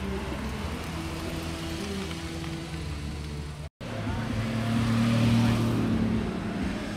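Cars driving slowly past one after another at low revs. First is a Porsche 911's flat-six with a steady drone. After a momentary cut-out a little past halfway, a small classic sports car's engine swells louder as it passes, then eases off near the end.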